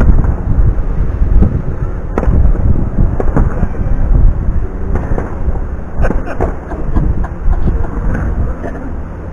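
Aerial firework display: a rapid run of overlapping shell bursts, sharp bangs over a continuous deep rumble.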